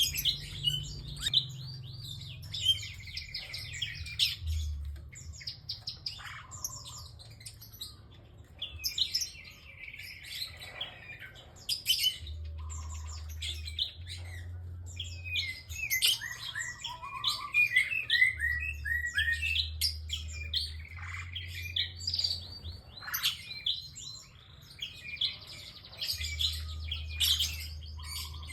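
Prinia (prenjak) calling busily: quick runs of sharp, high chirps repeated phrase after phrase, with short pauses between them.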